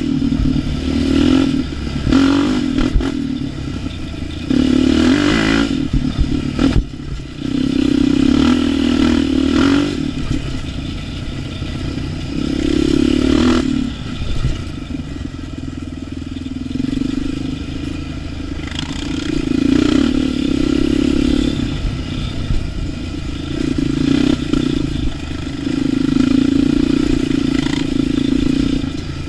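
An ATV engine is ridden along a trail, the throttle opened and closed again and again so the engine note keeps rising and falling. There are a few sharp knocks and clatter in the first several seconds.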